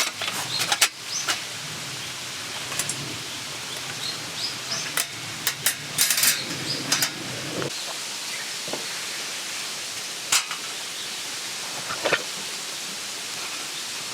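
Scattered sharp knocks, clicks and rustling from handling camping gear, busiest about six seconds in, over a steady outdoor background with short bird chirps.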